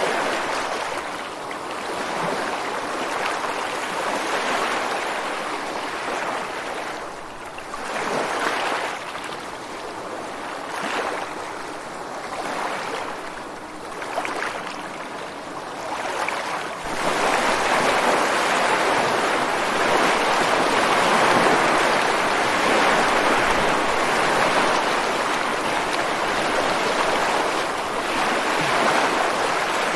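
Ocean surf breaking and washing ashore, swelling and ebbing every few seconds. A little past halfway it grows louder and stays loud as a bigger set of waves rolls in.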